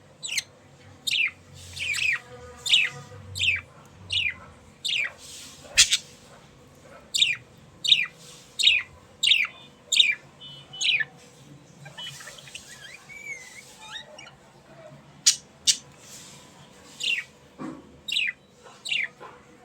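Budgerigars chirping: a long run of short, sharp calls that each sweep down in pitch, about one every two-thirds of a second. Around the middle there is a brief pause filled with a softer warble, then the chirps start again.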